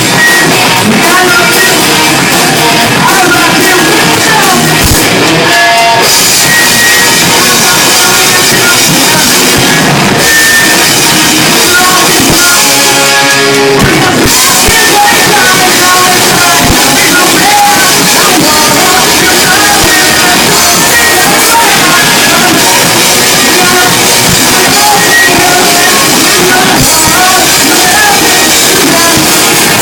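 Rock band playing live and loud, drum kit, amplified guitars and a singer, recorded close so the sound is dense. About halfway through the cymbals drop out briefly before the full band comes back in.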